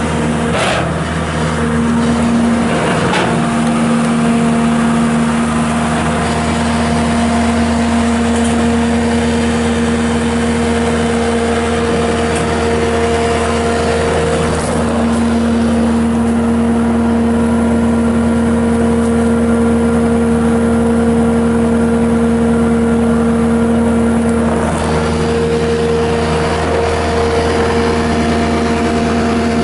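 Bobcat S650 skid steer loader running under power with its Kubota V3307 diesel engine and a steady whine from the machine, as it is driven back and forth. There are a couple of brief knocks in the first few seconds.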